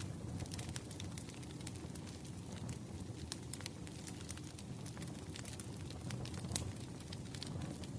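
Burning firewood crackling: irregular sharp pops and snaps over a steady low rush of flames.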